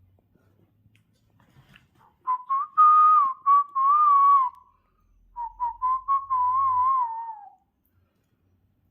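Parrot whistling two wavering phrases, each opened by a few short chirps, with a short pause between them.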